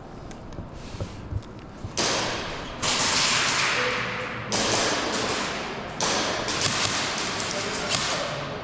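Airsoft guns firing rapid bursts, echoing in an indoor arena. There are a few light taps first, then four bursts that start sharply about two, three, four and a half and six seconds in, each trailing off.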